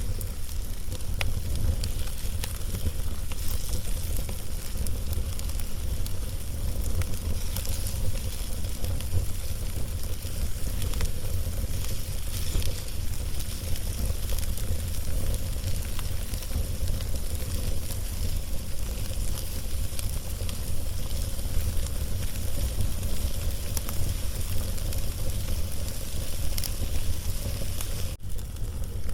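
Log fire burning, with scattered sharp crackles and pops over a steady low rumble.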